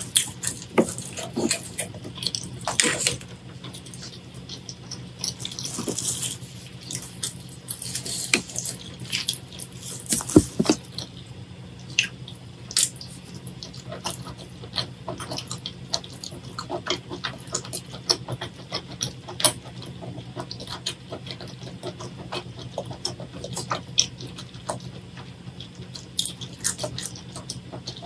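Close-miked wet chewing and sticky, smacking mouth sounds of someone eating saucy spicy seafood: many sharp little clicks, with denser squelching, slurp-like bursts in the first ten seconds. A steady low hum runs underneath.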